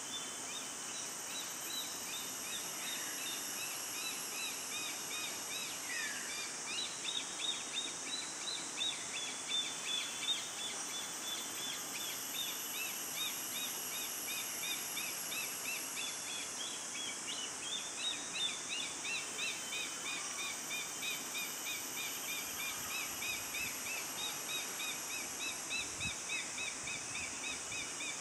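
A bird repeating short high chirping notes, about two or three a second, over a steady high hiss of forest ambience.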